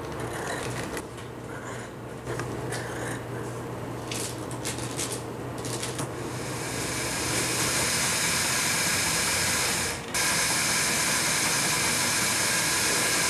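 Scattered clicks and handling noises, then a small motor-driven tool starts up about six seconds in and runs with a steady hiss. It stops briefly near ten seconds and starts again.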